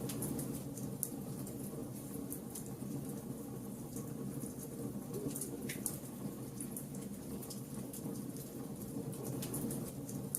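Wood fire burning steadily with a low rumble of flames and frequent small crackles and pops from the burning wood.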